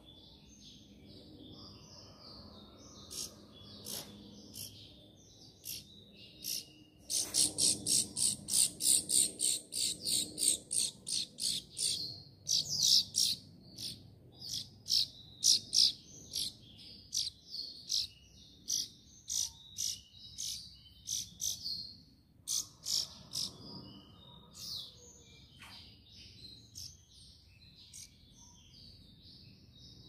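Small songbirds chirping: soft, high twittering throughout, with a run of loud, sharp chirps several a second from about seven seconds in that thins out near the end.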